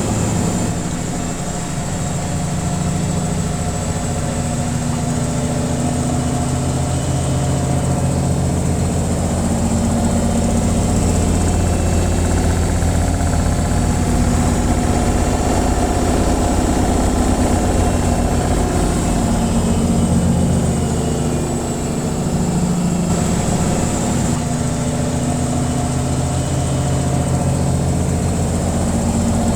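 Washing machine running its spin cycle: a steady low hum from the spinning drum and motor.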